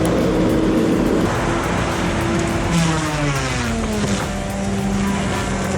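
Diesel engine of a Timber Pro TL745D tracked forestry harvester running steadily, its pitch sliding down about halfway through and settling lower.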